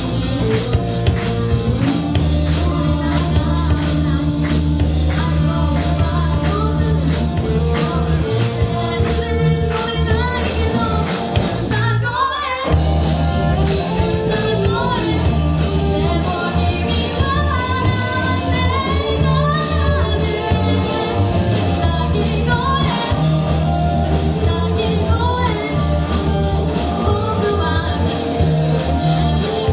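A live rock band playing: drums, bass and electric guitar with a singing voice. The band breaks off for a moment about twelve seconds in, then comes straight back in.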